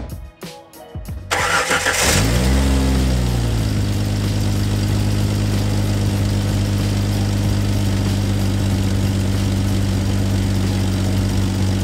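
1998 Jeep Grand Cherokee ZJ engine starting: a few short clicks and cranking, then it catches about a second in. The revs flare up and fall back into a steady idle.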